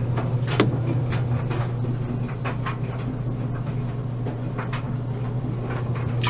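A steady low hum, with scattered light clicks and knocks as laundry products are handled at a washing machine, the sharpest about half a second in.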